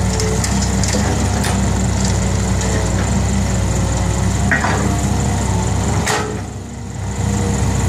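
Diesel engine of a six-wheel dump truck running steadily, with a few short clicks. A sharp knock comes about six seconds in, after which the engine sound dips briefly and then returns.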